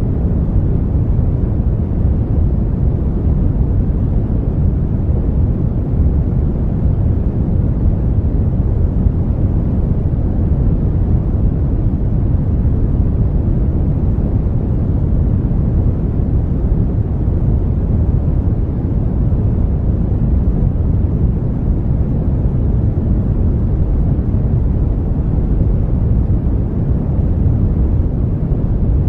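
Brown noise: a steady, deep hiss, strongest in the low end and falling away toward the highs.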